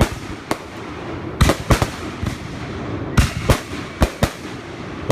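Consumer fireworks going off in quick, irregular bangs, about a dozen, some in rapid pairs, with crackling between them.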